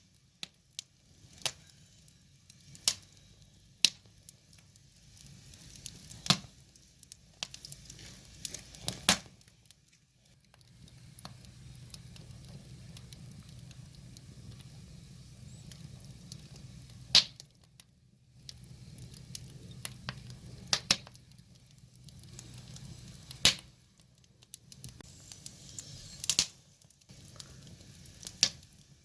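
Wood fire burning: logs crackling and popping in irregular sharp snaps over a low, steady rumble of flame.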